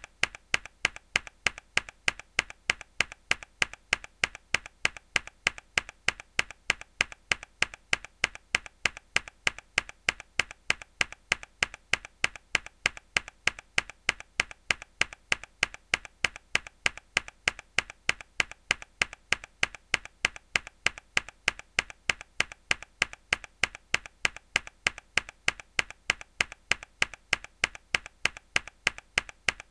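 A single hard key press on a mechanical keyboard, a sharp click repeated over and over at an even pace of about two to three a second as a looped sound effect.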